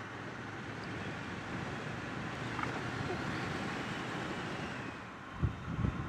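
Triumph Bonneville T120 parallel-twin motorcycle running at a steady cruise, heard with wind and road noise rushing over the microphone. Two short low thumps near the end.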